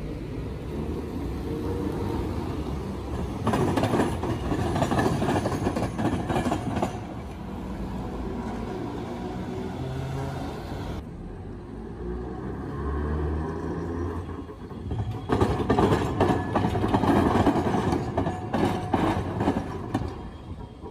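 Train wheels clattering over the rails in two loud spells, about four seconds in and again about fifteen seconds in, with a steady running rumble between.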